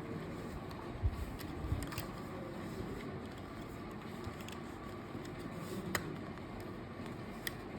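A few sharp clicks of plastic LEGO pieces being handled and pressed together, over a steady background hiss.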